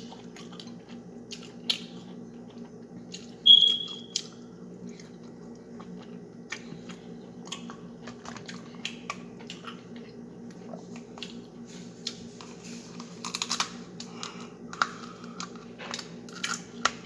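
Close-miked eating of crab legs: wet chewing and mouth clicks, with a busier stretch of crunching and cracking of shell in the last few seconds. A short high squeak about three and a half seconds in, over a steady low hum.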